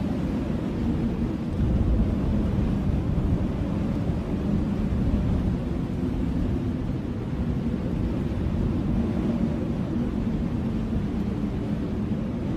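Strong blizzard wind blowing steadily, a deep, even rush of noise that never lets up.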